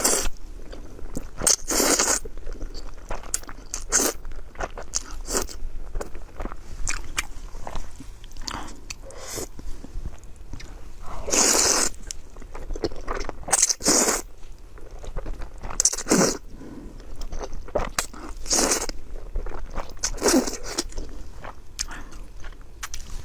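Close-miked eating: steady chewing with small wet clicks, and a louder bite or crunch every few seconds.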